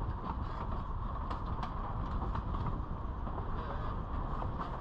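Durango & Silverton narrow gauge train running along the track: a steady rumble with scattered sharp clicks from the wheels on the rails.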